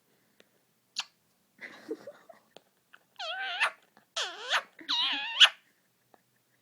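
Indian ringneck parakeet vocalizing: a sharp click, some soft chatter, then three loud, high-pitched calls in quick succession, each wavering up and down in pitch.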